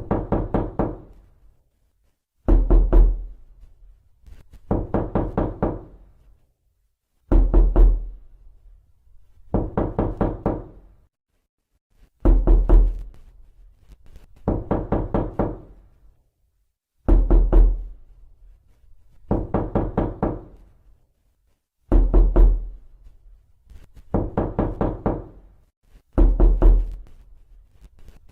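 Knocking on a door: repeated bursts of four or five quick knuckle raps, a burst about every two and a half seconds, each with a heavy low thud.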